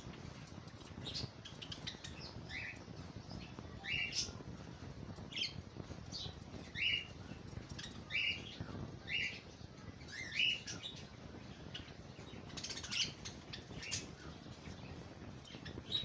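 Budgerigars chirping: short, separate chirps at irregular intervals, about a dozen, over a steady low background hum.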